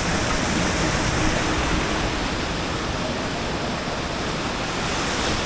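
Steady rush of river whitewater, an even hiss with no breaks.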